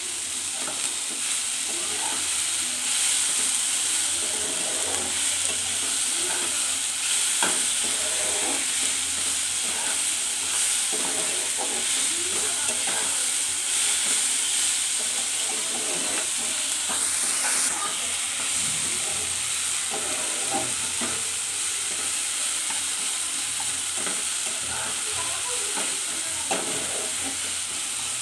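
Chopped onion, tomato and whole spices sizzling in a nonstick kadai, with a slotted metal spatula stirring and scraping them in quick, irregular strokes as the tomatoes fry down into the masala.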